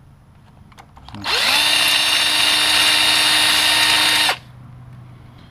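Electric drill spinning up and running steadily for about three seconds, then stopping, with a 15/64 bit in the freshly drilled hole in an aluminium shift lever.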